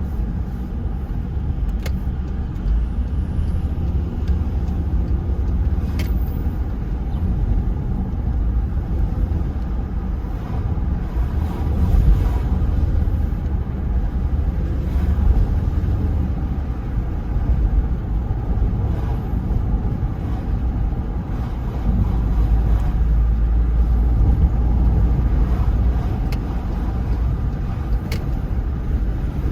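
Car driving on the road: a steady low rumble of engine and tyre noise that rises and falls a little.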